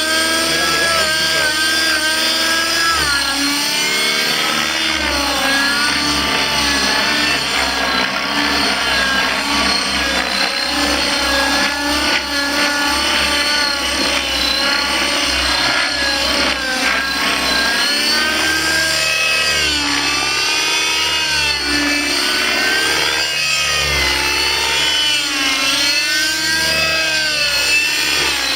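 Nitro glow engine (Redline 56) of a Velocity 50 radio-control helicopter running in 3D flight, its pitch repeatedly rising and falling with the rotor loading. It is running on a freshly fitted exhaust pipe whose mixture was never rechecked, a lean setting that blows up the engine in this flight.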